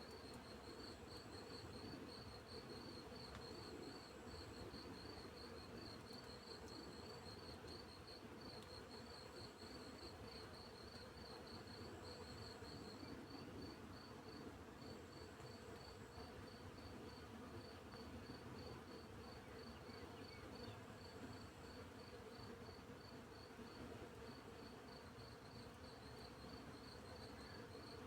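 Faint field insect chorus: crickets chirping steadily at about four chirps a second, with a higher trill from another insect coming in short stretches every few seconds, over a low, steady buzz of bees flying in the field.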